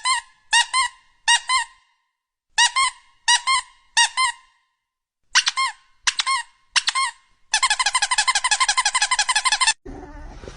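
A squeaky toy squeaked in three quick groups of three short squeaks, then squeaked rapidly and without a break for about two seconds near the end.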